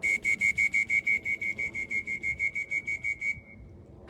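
Electronic beeper sounding a rapid series of high, even beeps, about six a second, for a little over three seconds before cutting off.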